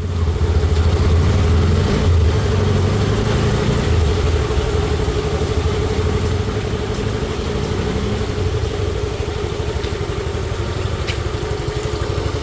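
Motorcycle engine running steadily at low revs, with a rapid even pulse.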